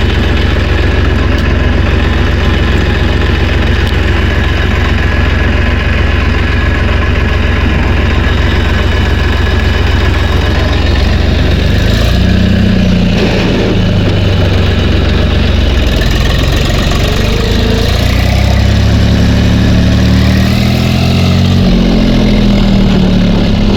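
Tractor engine running steadily, then revving up and down from about halfway through, its pitch rising and falling.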